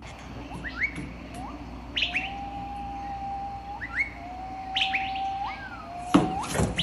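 A bird chirping and whistling: short rising chirps and two long, level whistled notes that each flick upward at the end. A couple of sharp knocks come near the end.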